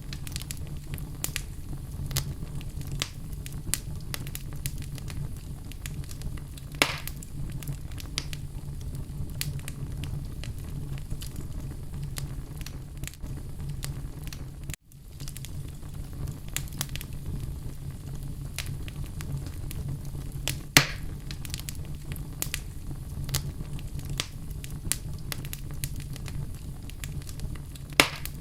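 Wood fire burning in a fireplace: a steady low rumble of flames with frequent small crackles, and three louder pops, the last near the end. The sound cuts out for an instant about halfway.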